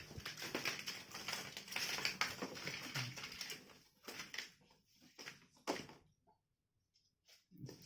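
Handling inside a bird shipping box: rapid crackling and rustling for about four seconds, then a few separate knocks before it goes quiet.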